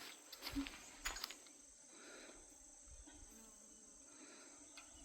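Faint, steady high-pitched insect chorus, with a few soft knocks in the first second or so.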